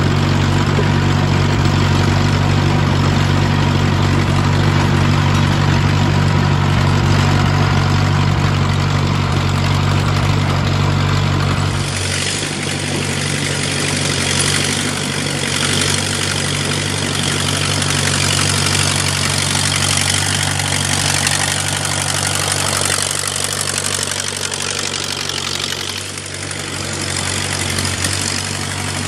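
Vintage Allis-Chalmers Speed Patrol road grader's engine running steadily. About twelve seconds in, the deep engine tone thins out and a broad rushing noise takes over.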